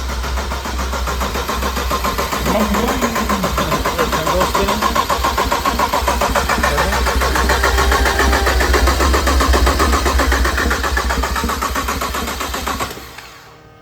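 Starter motor cranking a freshly built BMW N54 twin-turbo inline-six in steady rapid pulses, with the coils and injectors unplugged so it does not fire: a priming crank to build oil pressure. The cranking stops abruptly about a second before the end.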